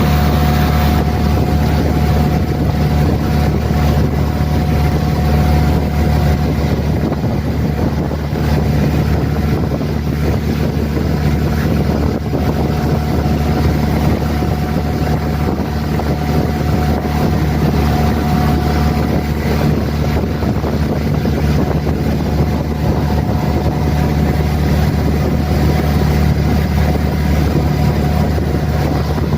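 Outrigger pumpboat's motor running steadily while the boat crosses the lake, with wind buffeting the microphone.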